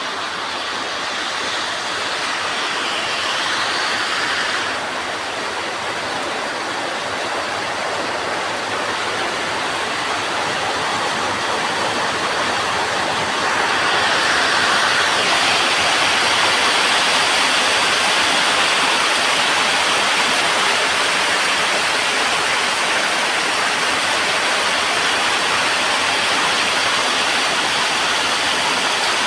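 Heavy rain pouring down in a steady hiss, growing louder about halfway through.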